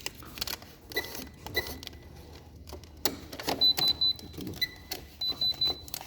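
Short electronic beeps from an asphalt ignition furnace's control panel: single lower beeps now and then, and quick runs of three or four higher beeps about halfway through and again near the end, among sharp clicks and knocks of handling.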